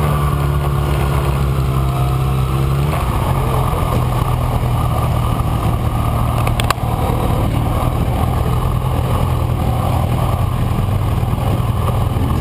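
Kawasaki Ninja ZX-6R inline-four engine running at steady revs, heard onboard with a rushing noise. The engine note drops slightly about three seconds in. There is a single sharp click about halfway through.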